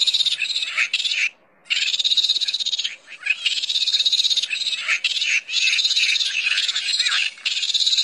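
Eurasian red squirrel gnawing at a nut held in its forepaws: a rapid, high, scraping rasp in bouts of one to two seconds with short breaks.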